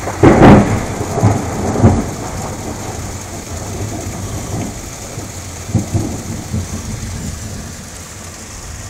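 Thunder: a loud clap just after the start, rolling into low rumbles that die away over several seconds, with a few fainter rumbles later, over steady rain.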